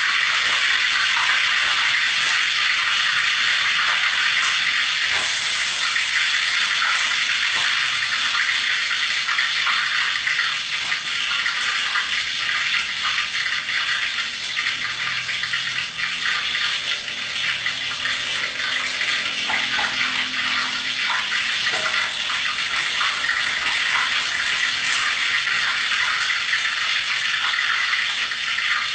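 Food frying in hot oil: a steady, loud sizzle with constant fine crackling and spitting.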